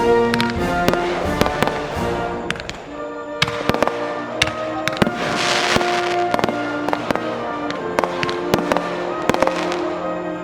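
Fireworks banging and crackling in quick, irregular reports, with a longer hissing crackle about halfway, over background music with held chords.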